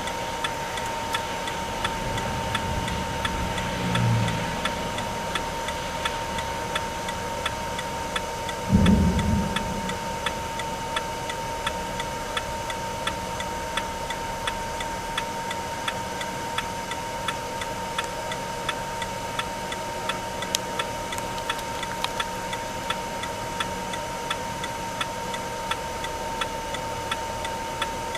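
Regular, evenly spaced ticking over a constant high-pitched tone, with a short low thump about nine seconds in.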